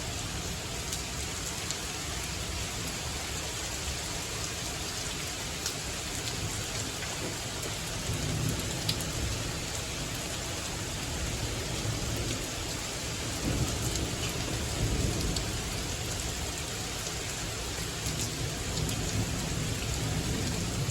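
Steady heavy rain from a thunderstorm, with low rumbles of thunder swelling about eight seconds in and again around fourteen seconds in.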